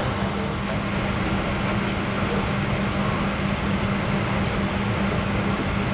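Steady rush of air from a Boeing 777-200ER's cabin air conditioning, with a constant low hum, while the airliner sits with its engines not yet started.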